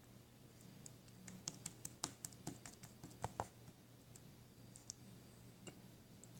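Faint run of light, quick clicks and taps, dense for the first few seconds and then sparse, over a low steady hum.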